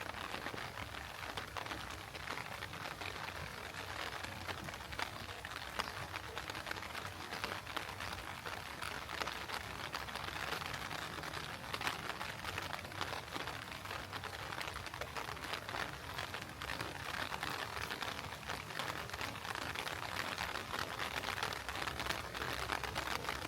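Heavy rain falling steadily: a dense, even patter of many small drops.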